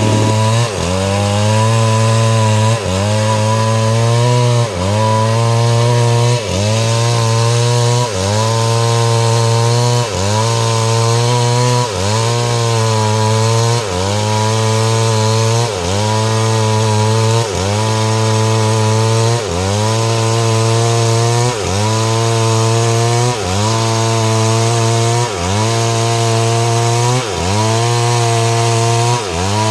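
STIHL MS 382 two-stroke chainsaw with a 30-inch bar cutting mahogany. The engine runs at high revs, and its pitch dips and climbs back about every two seconds.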